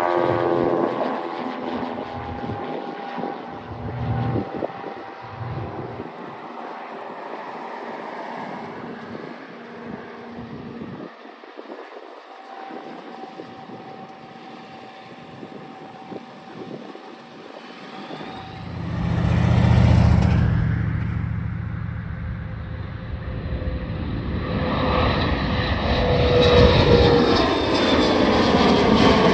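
Airplane engines at takeoff: one aircraft fades out at the start with its engine tones sliding down in pitch, then after a quieter stretch and a brief loud rush about two-thirds through, another builds up loud near the end with a whine falling in pitch as it passes.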